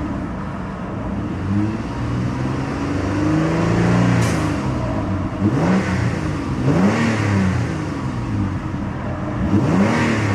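2007 Mitsubishi Galant GTS's 3.8-liter SOHC V6 being revved at a standstill, in several quick blips that rise and fall back toward idle, with one rev held a little longer.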